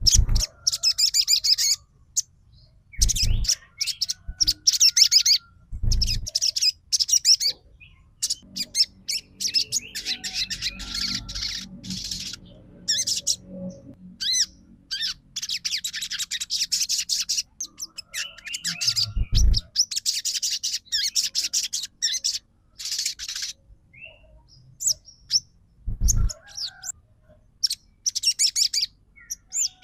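Sogon sunbird singing in bursts of rapid, high chirping trills, each lasting a second or three with short pauses between them, the fast 'trotol' song used as a lure to set other sunbirds singing. A few low thumps come through now and then.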